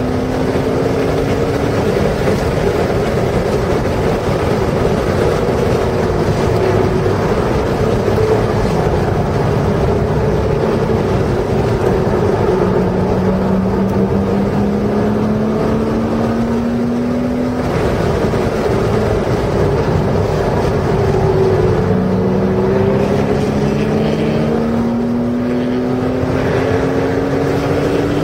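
Porsche sports-car engine heard from inside the car on a race track, pulling hard under throttle with its pitch climbing several times and dropping in between as it shifts or lifts for corners, over steady wind and tyre noise.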